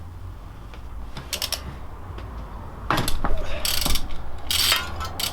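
A socket ratchet clicking in short runs as a homemade puller bolt is wound in against the flywheel of a Honda CB250 engine to pull it off. The clicks are sparse at first and come as louder runs in the second half.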